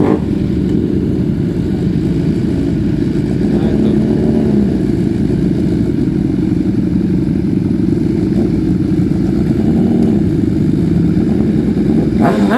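Big motorcycle engines running in a steady low rumble, with revs rising and falling as the bikes pull away.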